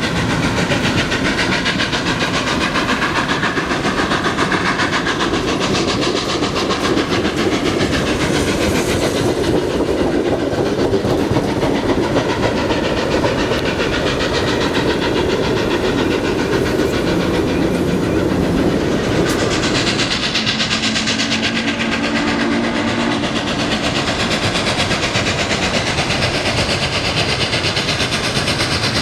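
Steam train running by, its wheels clattering steadily over the rail joints, with a steady hum underneath.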